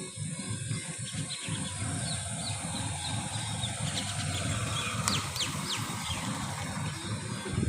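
Small birds chirping in short, quick notes, many in a row and densest in the middle, over a steady low rumble and a high hiss.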